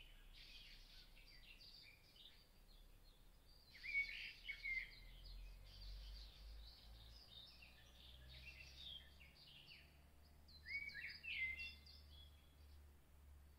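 Faint bird chirps and twitters in quick clusters, coming in several bursts, over a steady low hum.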